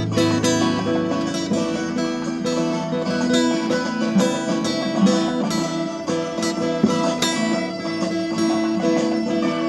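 Instrumental break of a folk-rock song: acoustic guitar strumming a steady rhythm, with a low bass note dying away in the first second.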